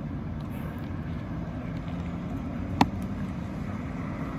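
A steady low rumble of outdoor background noise, with one sharp click a little under three seconds in.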